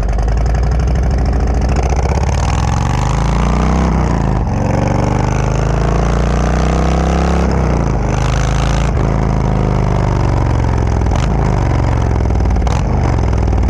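Harley-Davidson Road Glide's Milwaukee-Eight V-twin running through a Khrome Werks full exhaust with Ripper baffle inserts while being ridden. The pitch climbs and falls as it accelerates and changes gear, with breaks about four and a half and nine seconds in.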